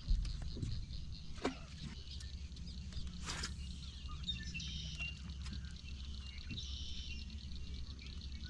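Outdoor ambience of a steady low rumble with repeated bouts of high chirping calls from birds and insects. There is a thump right at the start.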